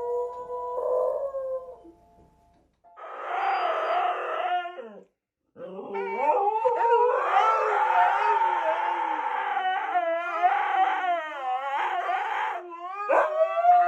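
A dog howling: a short howl, a brief pause, then one long wavering howl that ends in a quick rise in pitch.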